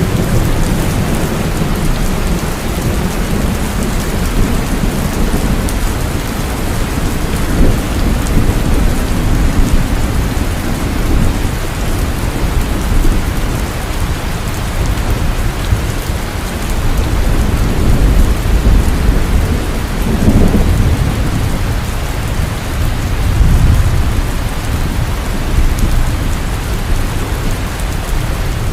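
Heavy, steady rainfall with thunder rumbling low underneath, swelling and fading several times, most strongly past the middle.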